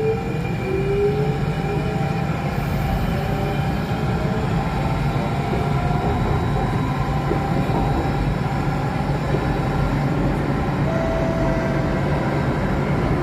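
Alstom Metropolis C830 metro train running, heard from inside the car: a steady rumble of wheels on track with the traction motors' whine over it, its tones rising in pitch over the first seconds as the train picks up speed.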